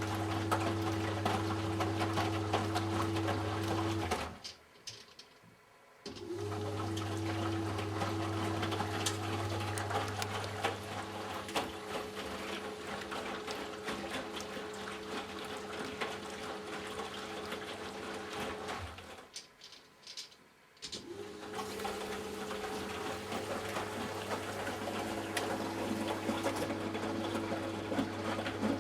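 Eudora Sparmeister 702 Classic washing machine in its pre-wash: the drum motor hums steadily with water sloshing in the tub. The motor stops for about two seconds twice, once about four seconds in and again near the end, between turns of the drum.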